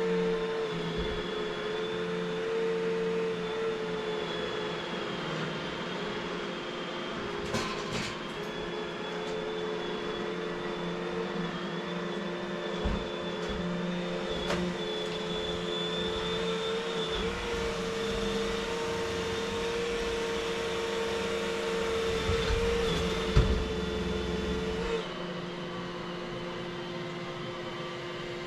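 Vacuum cleaner running steadily with a motor whine, with a few knocks as it bumps against things. Near the end part of the whine drops away and the motor goes on at a changed note.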